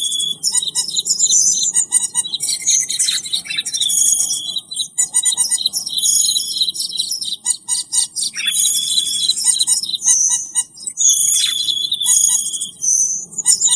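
Recorded cucak keling bird calls used as a trapping lure: a continuous run of sharp chirps, whistles and short trills, with the same phrases repeating every few seconds.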